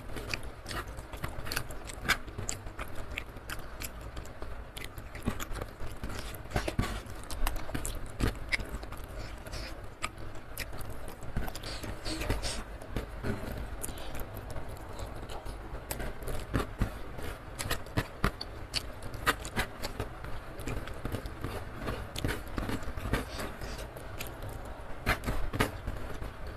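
Close-miked chewing and wet mouth clicks as rice is eaten by hand, with small scraping taps of fingers picking scattered rice grains off a wooden tray.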